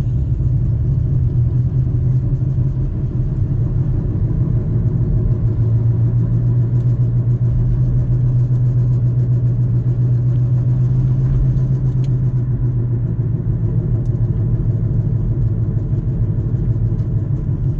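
Toyota Avalon's bad wheel bearing droning inside the cabin as the car picks up speed: a steady low hum over the road noise, strongest in the middle stretch.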